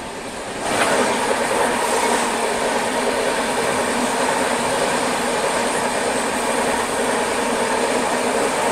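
An oncoming passenger train passing close alongside on the adjacent track, heard from the doorway of a moving train. About a second in the noise jumps suddenly as its coaches start rushing past, a loud, steady rattle and rush of wheels on rails that carries on.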